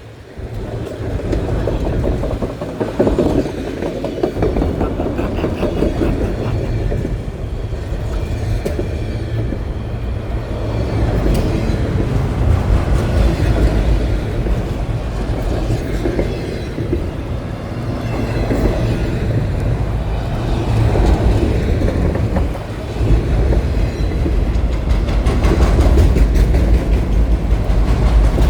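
CSX freight train's cars rolling past, a steady loud rumble of steel wheels on the rails.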